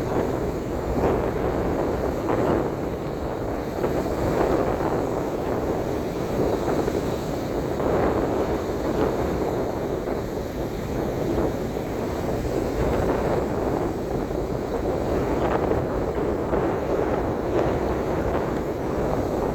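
Strong wind buffeting the microphone over the rush of surf on a stormy sea, rising and falling in gusts.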